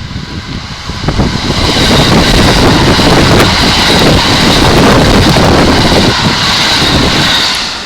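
Electric train passing close by: a steady rumble of wheels on rail with a high-pitched ring over it, building over the first second or two and falling away near the end.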